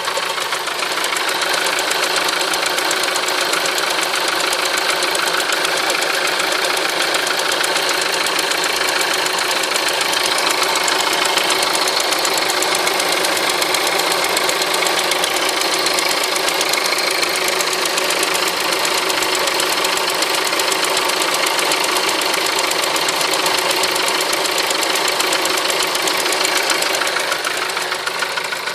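A 1.4-litre engine idling from a cold start, with a fast, even ticking over the engine note. This is the extraneous noise that shows up when the engine is cold.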